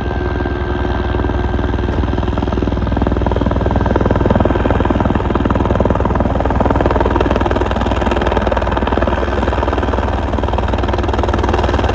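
Helicopter running, a loud steady rotor and engine drone.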